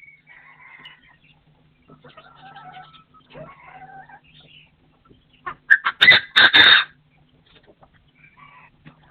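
Partridges calling: faint short calls at first, then a loud, harsh cluster of calls about six seconds in, followed by softer calls near the end.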